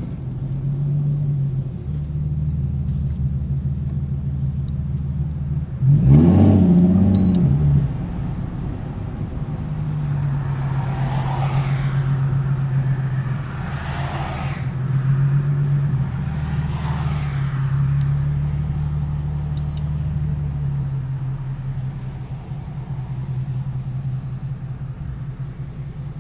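Nissan 370Z's 3.7-litre V6 with an aftermarket Tomei exhaust, heard from inside the cabin, running at low, steady revs with a low drone. About six seconds in it is briefly revved, rising and falling in pitch, the loudest moment.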